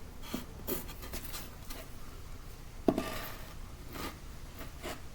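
Light scratching and rubbing as a small flooring board is handled and fitted, with one sharp knock about three seconds in.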